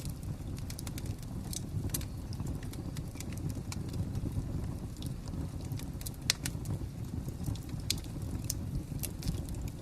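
Wood fire crackling: a steady low rumble with scattered sharp pops and snaps, the loudest about six seconds in.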